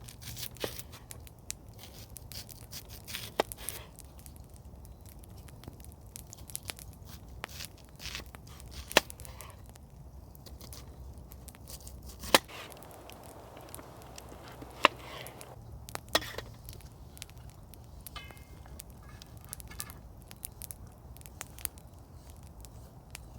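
Wood campfire crackling, with a run of small snaps and several sharp, louder pops a few seconds apart.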